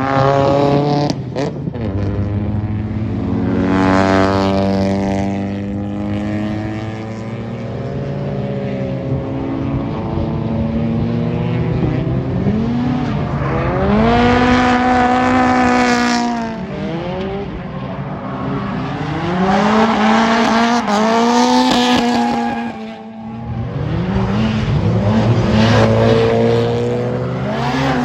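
Drift cars' engines revving hard, their pitch rising and falling again and again as the throttle is worked, with tyres squealing.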